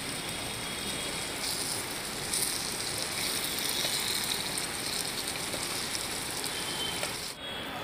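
Chicken kosha sizzling in a pot on the heat, a steady hiss that cuts off suddenly near the end.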